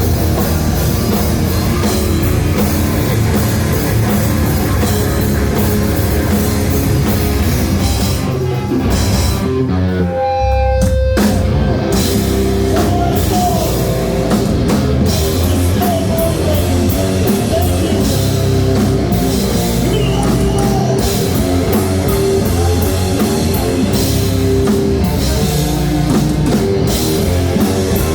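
Live heavy rock band playing: distorted electric guitars, bass and drum kit. About ten seconds in the drums drop out for a moment, leaving a held guitar note, then the full band crashes back in.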